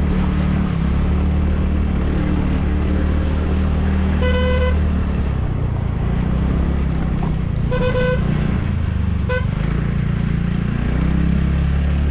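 Single-cylinder engine of a TVS Ntorq 125 scooter with a modified exhaust, running steadily. A vehicle horn toots three times: two half-second toots about three seconds apart, then a short one.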